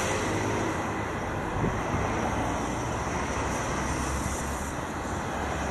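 Steady rushing noise of riding a bicycle through city streets: wind over the microphone with a low rumble of road and traffic underneath.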